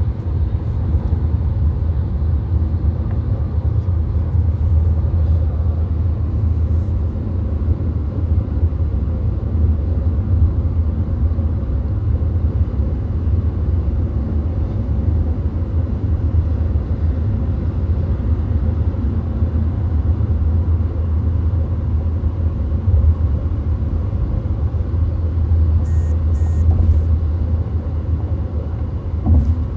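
Inside a VW Golf cruising on the motorway: a steady low rumble of tyre and road noise with the engine underneath, and a few faint high ticks late on.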